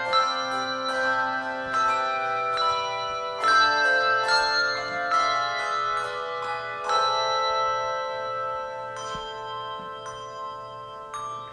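Handbell choir playing a melody. Struck bells ring on with long overlapping tones, and the music grows quieter toward the end.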